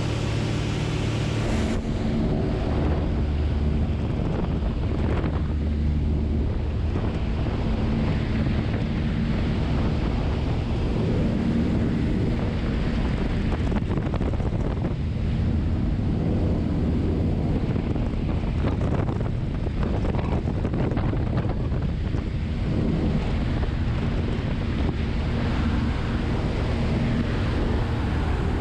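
Single-engine Cessna's piston engine and propeller droning steadily, with wind rushing over the microphone.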